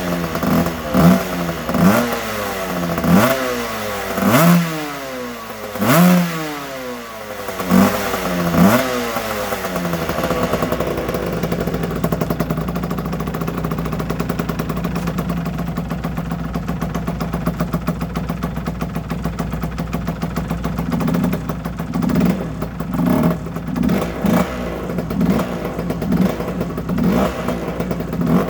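2008 Aprilia RS125's 125 cc two-stroke single-cylinder engine blipped hard about once a second, each rev rising sharply and falling back, then settling into a steady idle about ten seconds in, with small rhythmic rises in the last several seconds.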